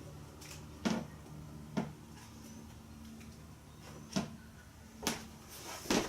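Sparse clicks and knocks of hand tools on an animatronic head mechanism being taken apart, about five sharp taps a second or so apart, over a faint steady hum.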